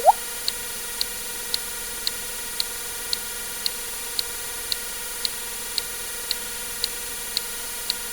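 A water-drip sound effect plays once at the very start: a short, loud plop rising in pitch. After it, sharp ticks go on at about two a second over a steady hiss.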